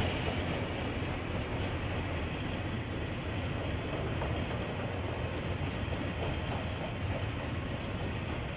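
KiwiRail train rolling past, a steady low rumble of wheels on the rails, heard through a security camera's microphone.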